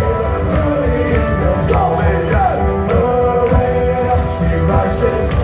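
Sea shanty choir performing live, with voices and instrumental accompaniment over a steady beat.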